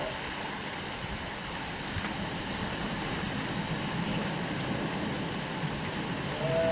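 Steady rain falling, with a brief pitched sound near the end.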